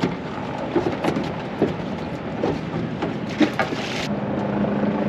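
Boat-deck ambience: a steady rush of wind and water with a few sharp knocks, and a steady low hum that sets in about four seconds in.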